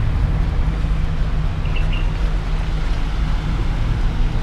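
A motor vehicle's engine running steadily with a low rumble, with two short high chirps about two seconds in.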